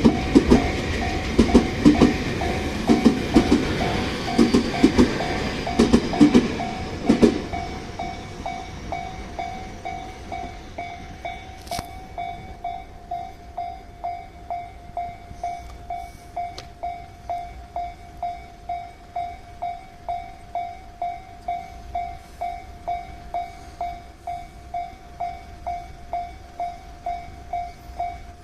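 Tōbu Railway train passing over a level crossing, its wheels clattering in a steady rhythm over the rail joints, until it clears about seven seconds in. The crossing's warning bell keeps ringing the whole time, a repeated ding about twice a second, and goes on after the train has gone because the crossing stays closed.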